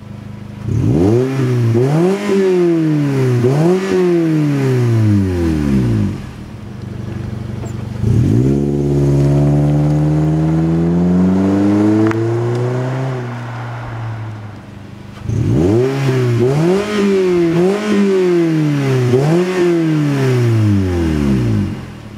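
Toyota RAV4 IV 2.0-litre four-cylinder petrol engine revving through a FOX cat-back aftermarket exhaust. It gives a few quick blips from idle, then one slower, longer rev that sinks back to idle, then about four quick blips in a row.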